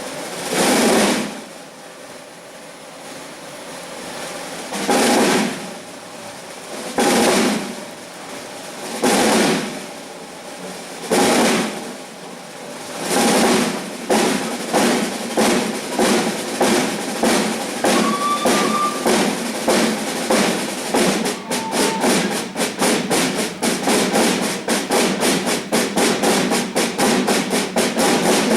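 Snare drums playing swelling rolls about every two seconds, then a steady rhythm that quickens from about halfway and grows dense toward the end, imitating a train pulling away and gathering speed.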